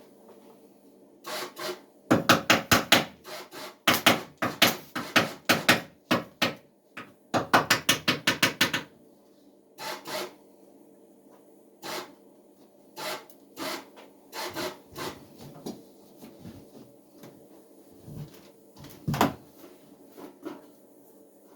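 Fast back-and-forth scraping strokes from a hand tool, about six a second, in three runs within the first nine seconds. After that come scattered single knocks and short scrapes.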